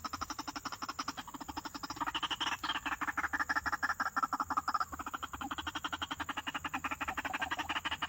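A bird giving a fast, unbroken run of harsh squawking calls, about ten a second, growing louder from about two seconds in.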